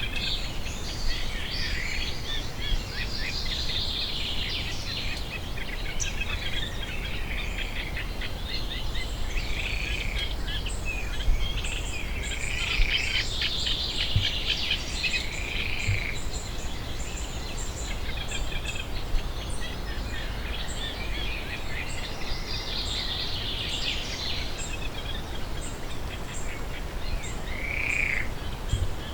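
Pond-side nature ambience: small birds chirping and singing in loose clusters, over a faint, evenly spaced high insect ticking and a steady low rumble.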